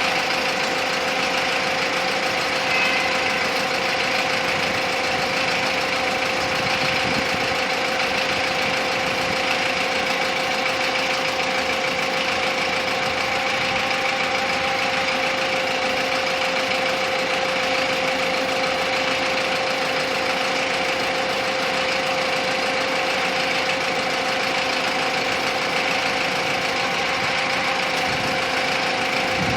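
Dongfeng crane truck's engine running steadily, with an even mechanical hum and a steady whine held at one pitch throughout.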